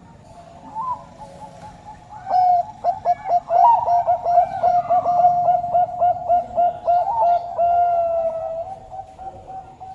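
Bangkok turtledove cooing: a rapid run of short staccato notes, about six a second, starting about two seconds in and fading near the end, over a steady tone at the same pitch.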